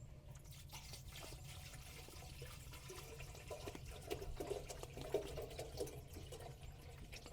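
Water being poured into the built-in water tank of a tent wood stove, a faint continuous trickle and splash.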